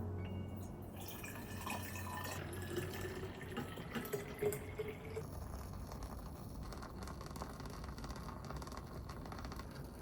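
Water pouring into a container, its pitch rising as it fills, for about four seconds, then stopping. Faint drips and small clicks follow.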